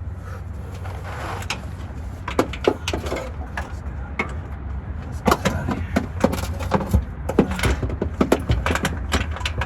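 Irregular clicks and knocks of hand tools on metal during work on bolts under a junkyard truck, over a steady low rumble.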